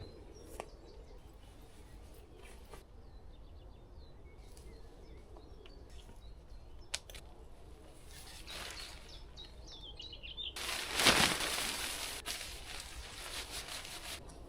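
Woodland ambience with faint bird chirps now and then and a sharp click about seven seconds in. About ten and a half seconds in comes a loud burst of rustling noise lasting a couple of seconds.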